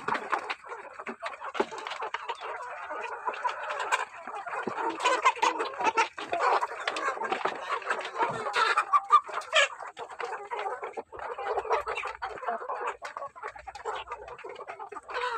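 Chickens clucking continuously as they feed, with many short sharp taps scattered through.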